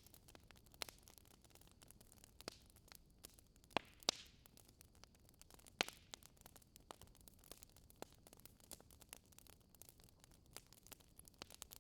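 Faint crackling of a fireplace fire: irregular pops and snaps over a soft steady hiss.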